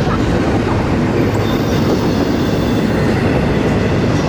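A train running on the rails, loud and steady.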